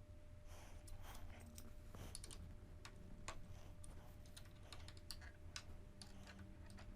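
Faint, irregular small clicks and taps of a tool working on a motorcycle fork stem phone mount as it is tightened.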